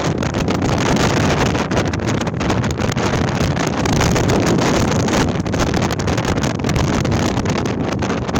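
Gale-force wind blowing against a tent: a loud, steady rush with constant rapid buffeting on the microphone.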